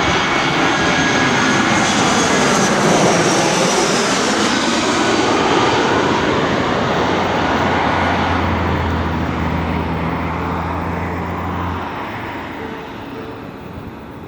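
Jet airliner flying low overhead on its landing approach, the engine noise loud and slowly sliding in pitch as it passes, then fading away near the end.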